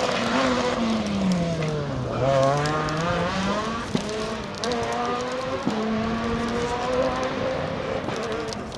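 Rally car engine: it drops in pitch as the driver lifts off for about two seconds, then revs back up and holds high revs with small shifts in pitch. A couple of sharp cracks come in the second half.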